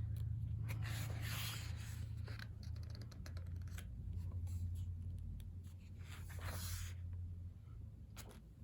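Photobook pages being turned and handled: several soft paper rustles and swishes, with a low steady hum underneath.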